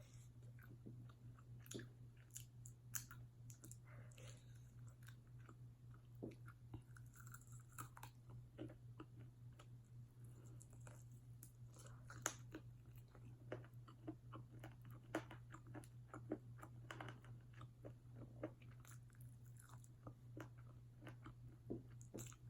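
Close-up chewing and crunching of fried chicken wing breading: irregular wet crackles and crunches at a low level, over a steady low hum.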